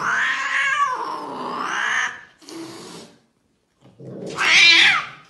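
A cat caterwauling: a harsh, loud yowl lasting about two seconds, then after a brief pause a second loud yowl about four seconds in.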